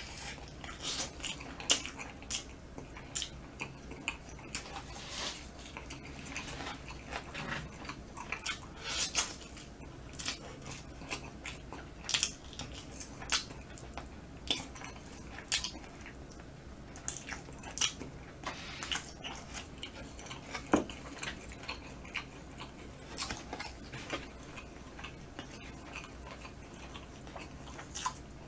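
A person chewing smoked chicken meat eaten by hand, close to the microphone: a steady run of wet mouth smacks and short sharp clicks, a few every second.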